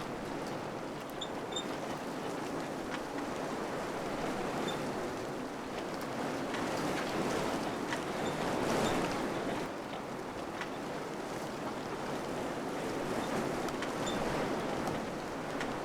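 Wind blowing in gusts, a steady rushing that swells about eight or nine seconds in and eases again. A few faint high peeps and light ticks sound now and then.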